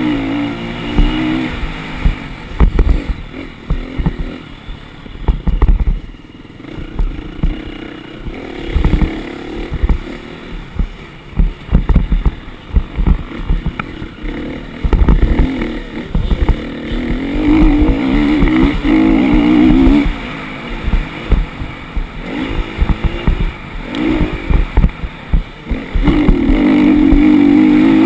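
Motocross dirt bike engine revving up and down in repeated surges, with long stretches held at high throttle, mixed with frequent low thumps.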